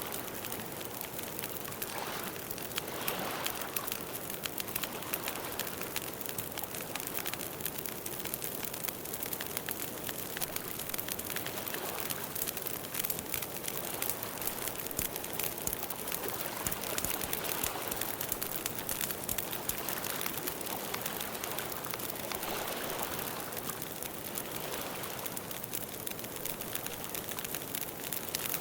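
Campfire burning with a steady hiss and a dense run of small crackles and pops.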